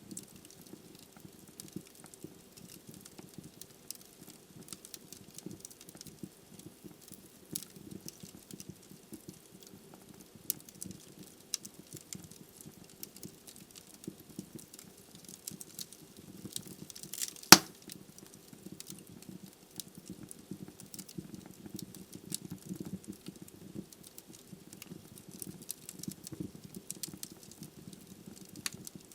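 Wood logs burning in a fireplace: a steady low rumble of flame with many small crackles, and one loud sharp pop a little past halfway.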